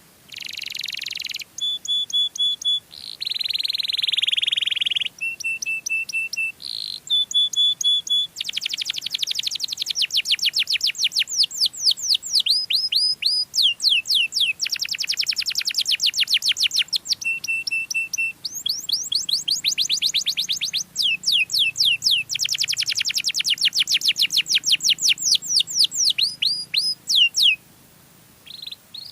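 Domestic canary singing a long, continuous song. It runs through fast trills of rapidly repeated sweeping notes and buzzy rolling phrases, and stops shortly before the end.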